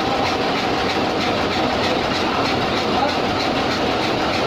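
Cummins diesel engine running steadily, with an even, rhythmic clatter.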